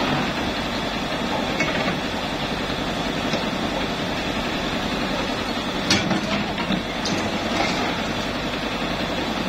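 Hitachi UH07 hydraulic excavator's diesel engine running steadily, with a few metal clanks; the loudest comes about six seconds in.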